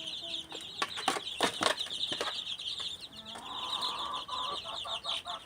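Chickens clucking, with a steady high chirping throughout and a few sharp clicks in the first half; a run of pitched clucks starts past the middle.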